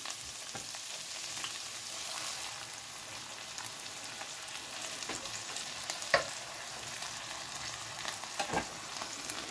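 Chorizo slices and onion sizzling steadily in a frying pan as canned chopped tomatoes are tipped in, with a few light knocks, the clearest about six seconds in.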